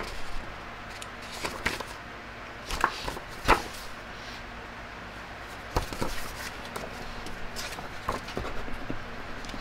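Scattered knocks and clicks of hard objects being handled, with the sharpest knock about three and a half seconds in, over a low steady background hiss.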